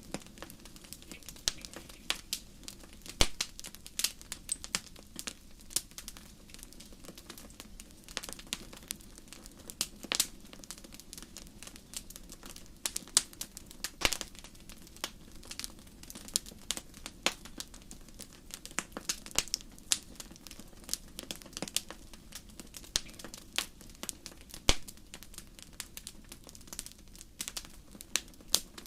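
Wood fire in a fireplace crackling, with frequent irregular sharp pops of varying loudness over a low steady background of burning.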